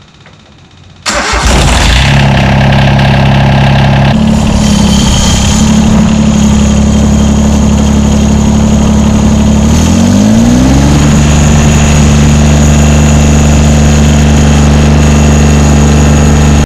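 John Deere 332 garden tractor's three-cylinder Yanmar diesel cranking about a second in and catching at once, then running steadily. Its speed rises about ten seconds in and holds at the higher speed. This is the first start after a fuel-filter change and priming of the fuel system.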